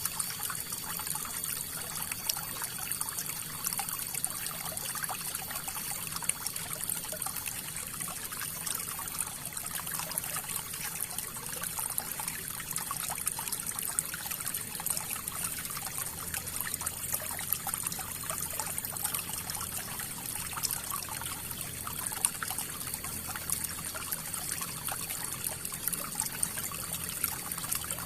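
River water flowing steadily over and around rocks, a continuous rush made of many small splashes and trickles.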